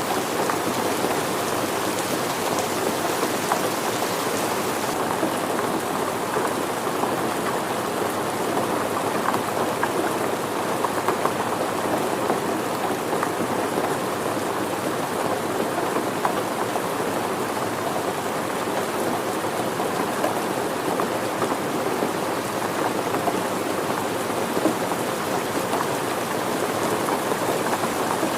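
Steady rain falling, a dense, even patter of drops on surfaces. The high hiss softens slightly about five seconds in.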